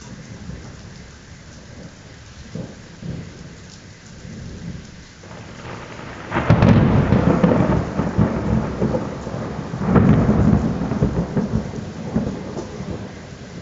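Thunder from a close lightning strike over steady rain: a sudden loud crack about halfway through that rolls into rumbling, swelling again a few seconds later before dying back to the rain.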